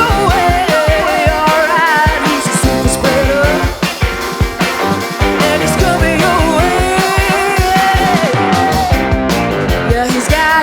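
Psychedelic rock band playing live: drums hitting steadily under keyboards and electric guitar, with a sliding melodic lead line.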